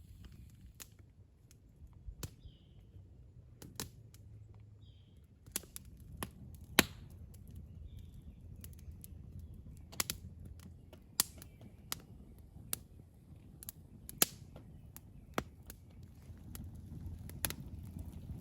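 Scattered sharp knocks and snaps, a dozen or so at uneven intervals, the loudest about seven seconds in.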